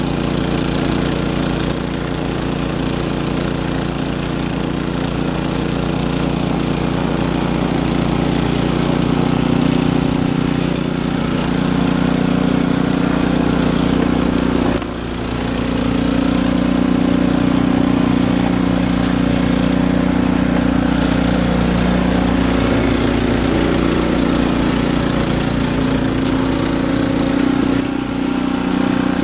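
Snowblower engine running steadily under load, with a brief dip in level about halfway through.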